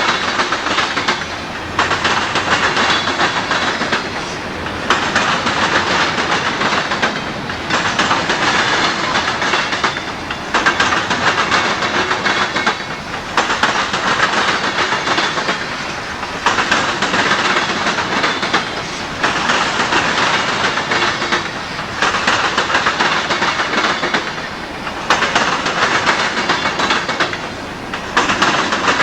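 Freight train cars rolling past on jointed rail, wheel clatter swelling and dipping as each car goes by, about every two and a half to three seconds.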